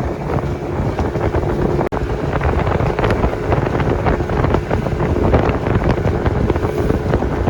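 Dinghy outboard motor running steadily while the dinghy is underway, under heavy wind buffeting on the microphone.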